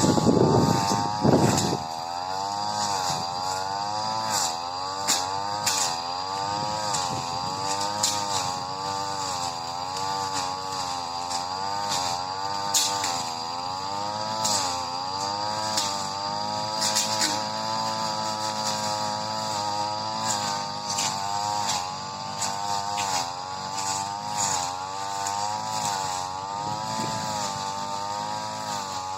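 Supra SPR328 two-stroke brush cutter running at high speed while cutting grass, its pitch wavering up and down as the load changes. There is a loud rushing noise in the first couple of seconds and scattered sharp ticks throughout.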